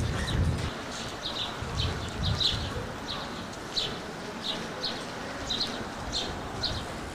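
A small bird chirping over and over, short high chirps about two a second, over low rumbling background noise.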